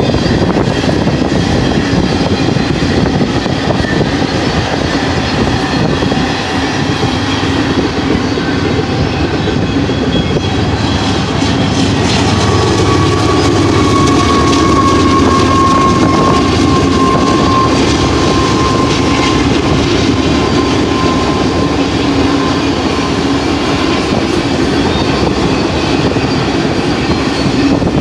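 Freight train rolling past: steady wheel-on-rail rumble and clatter of tank cars, then autorack cars. About halfway through, the mid-train GE C44AC diesel locomotive goes by and the sound swells a little, with its engine drone and a steady high whine.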